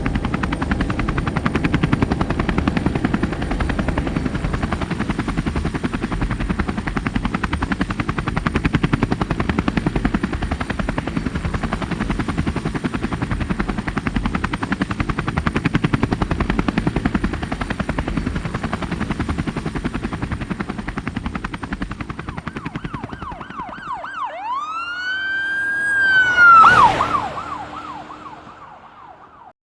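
A fast, steady chopping mechanical noise, which stops after about twenty-four seconds. A single siren wail then rises and falls, and the sound fades out.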